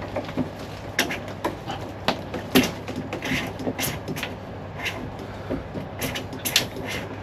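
Irregular clicks and knocks of hand work on a car's boot fittings, tools and trim being handled, over a steady low hum.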